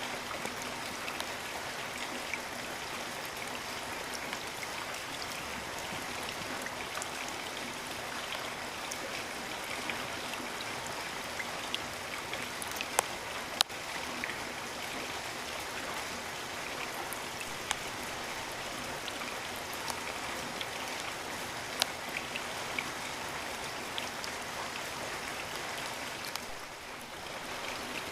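Steady heavy rain falling in a rainforest, an even hiss with sharp ticks of single drops landing close by, the loudest two about halfway through. The level dips briefly near the end.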